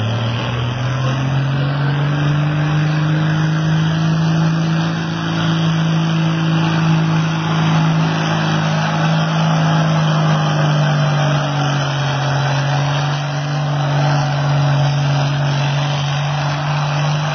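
Antique tractor engine running hard under load in a tractor pull, a loud, steady drone whose pitch climbs at the start and then holds.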